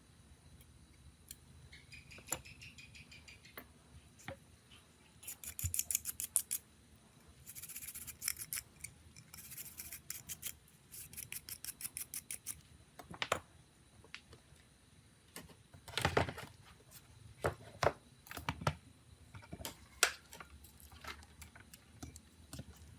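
Hand-tool work on a small device: several runs of rapid, crisp clicks at about ten a second, then scattered sharp taps and knocks.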